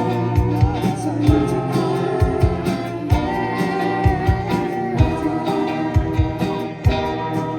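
A band playing live with a lead vocal, guitar and a steady kick-drum beat.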